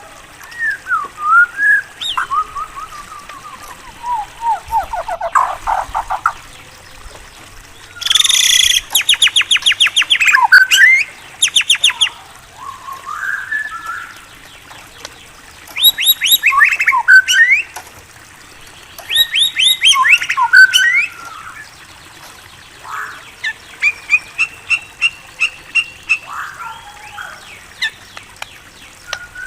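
A white-rumped shama (murai batu) singing a varied song of sliding whistles and rapid trills, in phrases of one to three seconds with short pauses between them. Its loudest bursts of trilling come about a third of the way in and again in the middle.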